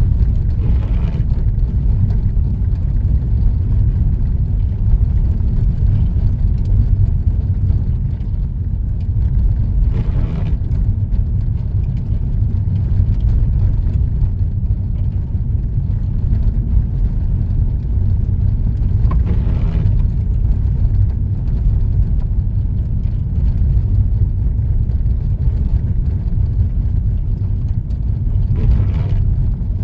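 Car driving steadily on a country road, heard from inside the cabin: a constant low rumble of engine and tyre noise, with a faint brief swish about every nine seconds.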